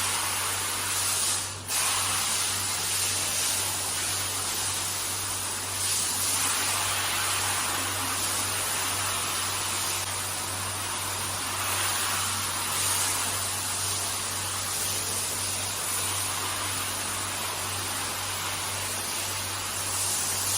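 Hand-held high-pressure car wash sprayer spraying water onto a carpet: a steady hiss with a low hum underneath. The spray dips briefly and comes back about one and a half seconds in.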